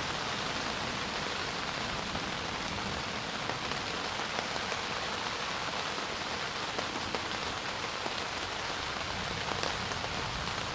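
Rain falling steadily, a continuous even patter with scattered small drop ticks.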